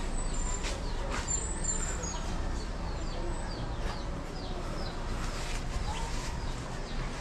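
Small birds chirping: many short, falling chirps a few times a second, with a few thin high whistles near the start, over a steady low rumble.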